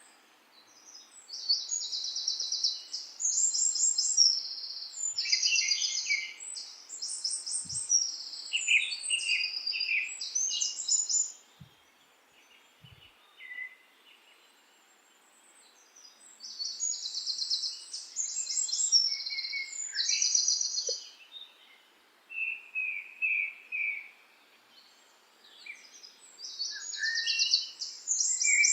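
Small birds singing: bouts of quick, high, trilling song phrases a few seconds long, broken by pauses of several seconds, over a faint steady hiss.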